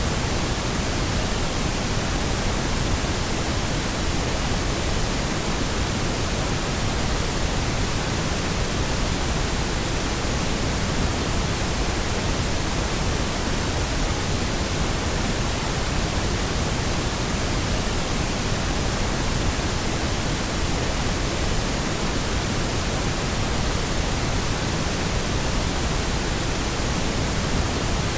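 Steady pink noise: an even, unchanging hiss with a fuller low end than white noise and no events or changes.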